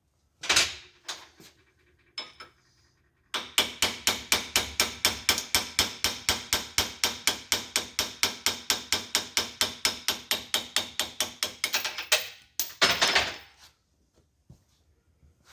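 Rapid, even hammer taps on metal, about six a second for roughly nine seconds, with a louder clatter just before and just after the run. The taps work a connecting-rod cap loose from its locating dowels.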